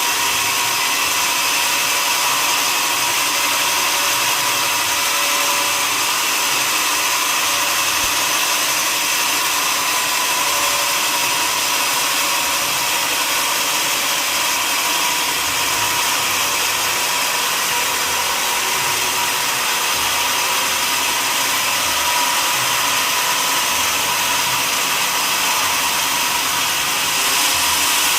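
Sawmill saw running steadily, a constant loud hiss with a few held whining tones.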